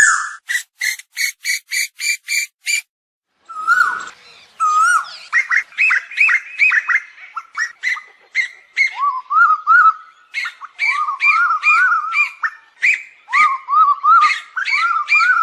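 Asian koel calls from a bird-lure recording. A run of about eight short, evenly spaced notes is followed by a brief pause, then a dense stream of quick, overlapping notes that rise and fall.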